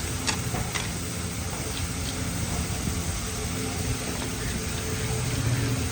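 A steady low mechanical hum, like a small motor or an engine running, with a couple of light clicks about half a second in.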